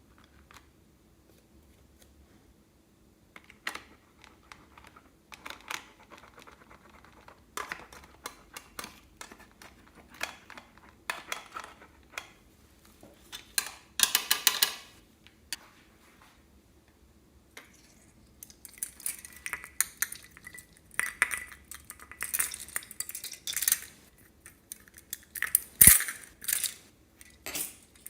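Utensils and containers clinking, tapping and scraping in irregular bursts while ingredients are handled for mixing into slime. It is quiet for the first few seconds, busy in the middle, and has one sharp knock near the end.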